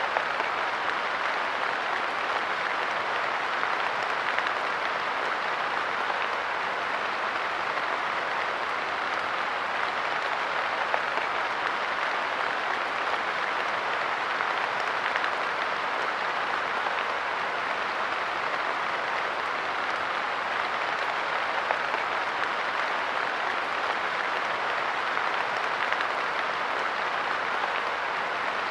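Steady light rain falling on a park bench: an even hiss with a few slightly louder drop hits here and there.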